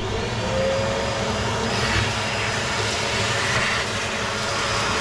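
Vacuum cleaner starting up and running steadily with a motor whine, sucking ash out of a wood stove's ash pan.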